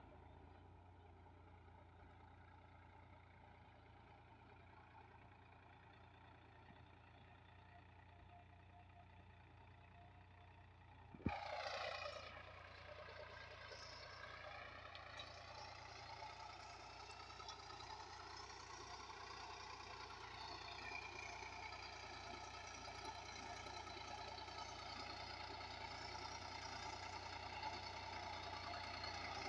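Sonalika Tiger tractor engine running at a steady, faint pitch. About a third of the way in there is a sharp click, after which the engine is louder, its pitch dips and recovers, and it grows steadily louder toward the end.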